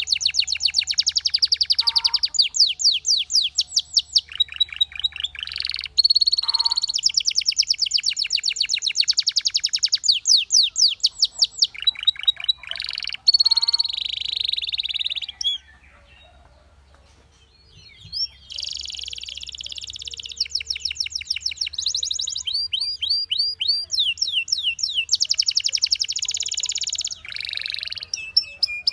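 Canary singing: fast, high trills of rapidly repeated notes, one tour after another. About halfway through it pauses for a few seconds, then starts again.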